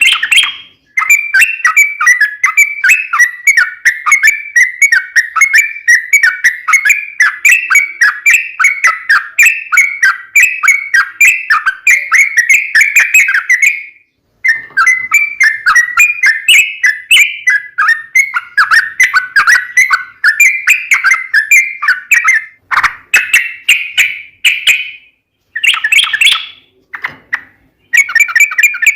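Yellow-vented bulbul (trucukan) singing a long, fast run of chattering notes in long unbroken phrases. It breaks off briefly about halfway through, starts again, and ends in a few shorter bursts.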